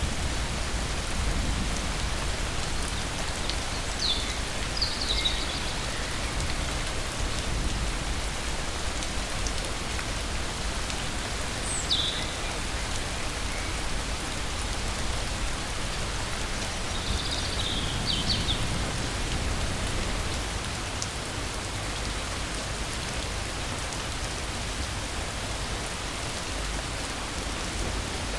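Steady rain falling, with a few short high chirps about 4, 12 and 18 seconds in.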